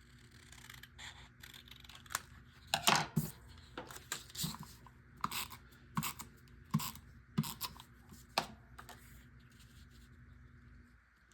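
Scissors snipping through scrapbook paper to trim a corner: about ten short, sharp snips over several seconds, the loudest near the start of the run.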